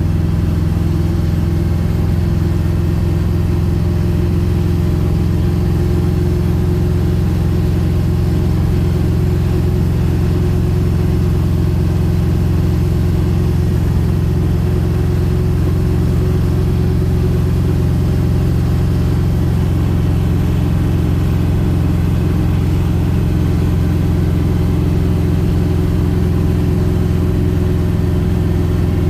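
1971 Plymouth Road Runner's 440 big-block V8 running at a steady speed while cruising: a deep, even drone with no revving.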